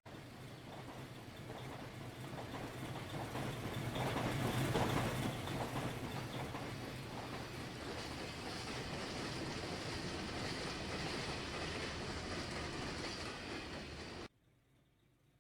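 A train hauled by two steam locomotives rolling past, its wheels clicking over the rail joints. It swells to its loudest about four seconds in, stays steady, and cuts off suddenly near the end.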